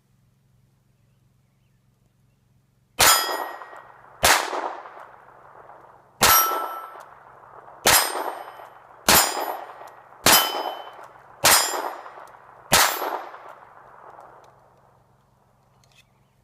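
Walther PPK/S .22 LR pistol firing eight shots, spaced about one to two seconds apart, starting about three seconds in. Each sharp crack leaves a ringing tail of about a second.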